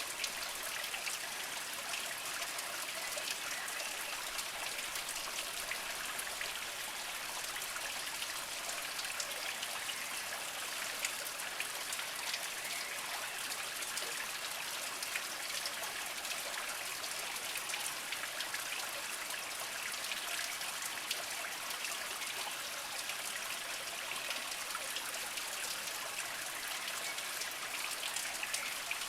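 A small mountain spring trickling and splashing over mossy rocks: steady water noise full of fine drips and splashes.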